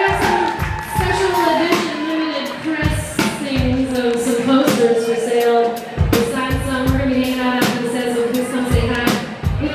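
Live band playing: regular drum hits under held, stepping instrumental notes.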